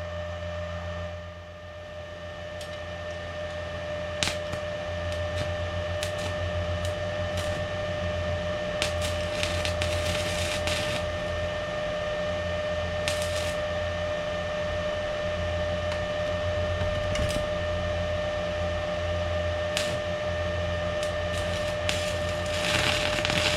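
Electric welder at work: a steady hum under irregular crackling welding bursts, a few short ones and a longer, louder one near the end.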